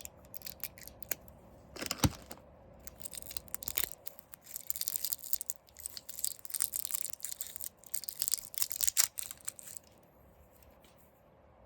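Plastic wrapping being handled and torn open: crinkling and rustling with many small clicks, strongest in the middle, after a single knock about two seconds in.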